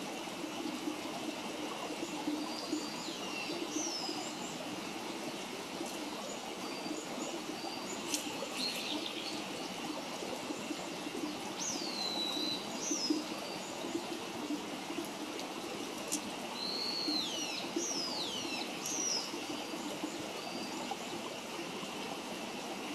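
Small birds chirping in short, swooping calls in four or five bouts, over a steady low hiss with a few sharp crackles from a wood campfire.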